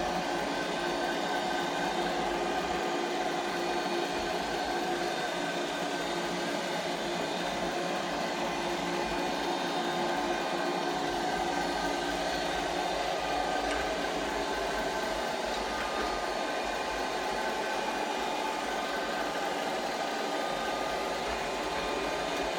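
Medion robot vacuum cleaner running: a steady motor whir with several steady tones riding over the noise, at an even level throughout.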